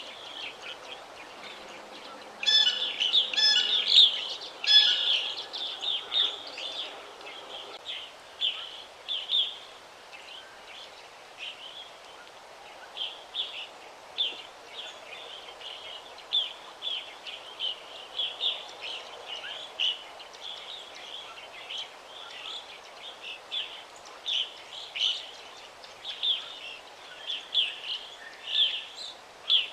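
Songbirds chirping in a forest: a continuous run of short, high chirps, with a louder burst of calls from a second bird about three seconds in.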